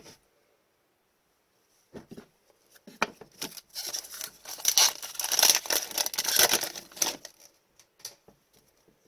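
A foil trading-card pack wrapper being torn open and crinkled by hand, with a long burst of crackly rustling in the middle and a few small clicks before and after.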